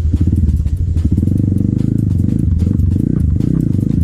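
Trail motorcycle engine running, its pitch dipping and rising briefly about three seconds in.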